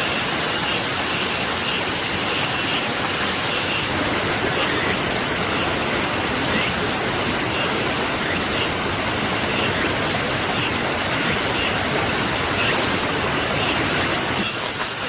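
Steady rain hiss, with a high pulsing trill repeating roughly once a second over it and a few sharp crackles near the end.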